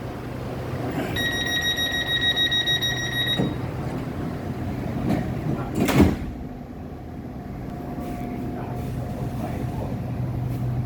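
Commuter train's door-closing warning, a buzzing high electronic tone lasting about two seconds, followed a few seconds later by a single loud thud as the sliding doors shut, over the steady hum of the stopped train.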